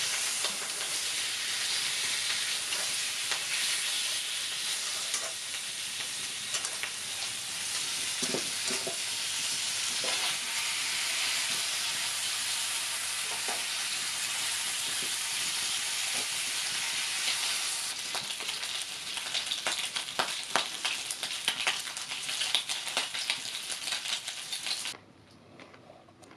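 Bacon frying in a pan over a campfire, sizzling steadily with sharp pops and crackles of spitting fat; it is cooking hot enough to burn. The sizzle cuts off suddenly near the end.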